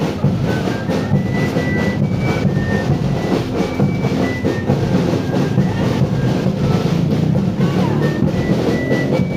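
Live band music: drums beating steadily, with a melody of short high held notes played over them.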